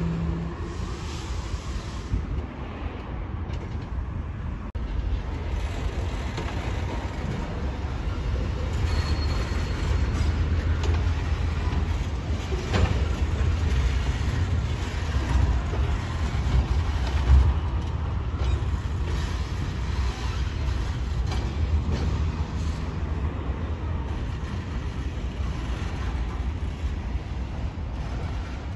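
Freight train moving on the tracks: a steady low rumble of diesel locomotive and wagons, with scattered clanks and a brief faint squeal about nine seconds in.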